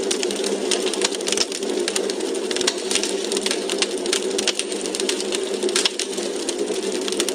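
Log fire crackling in a fireplace: many quick, irregular pops and snaps over a steady low rushing.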